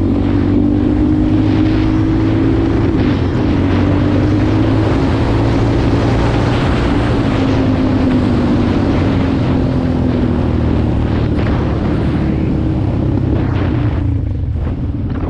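Dirt bike engine running under way, its pitch rising and falling with the throttle, with wind buffeting the microphone. It eases off near the end.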